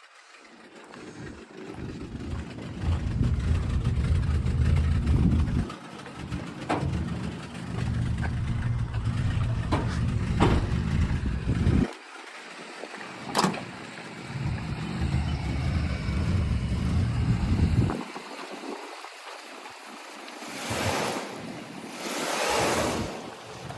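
1986 Dodge D150 pickup's engine running and being revved, in stretches of low rumble broken by short gaps, with louder surges near the end.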